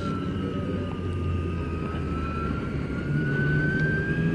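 Custom Zero S electric motorcycle's motor whining under way, the whine sinking in pitch for about a second as the bike eases off, then climbing steadily as it accelerates again. A low rushing wind and road noise runs underneath.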